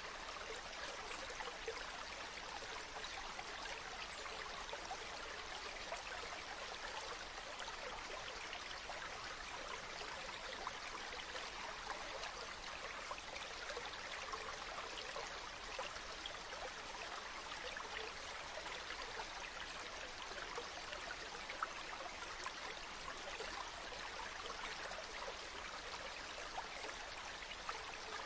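A stream running steadily, a continuous wash of flowing water flecked with small splashes and trickles.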